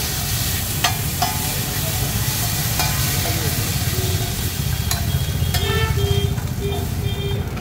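Chilli chicken sizzling on a large flat iron tawa while a metal spatula stirs and scrapes it, with several sharp clinks of the spatula against the griddle. A steady low rumble runs underneath.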